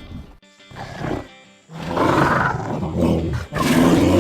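Bear roaring: two long, rough roars, the first about two seconds in and the second right after it, following a quieter, broken stretch.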